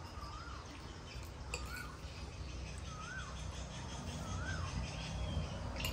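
A bird repeating a short whistled note four times, about every second and a half, each note rising then falling and each a little higher than the last, over a low steady hum. A couple of faint clicks sound among the calls.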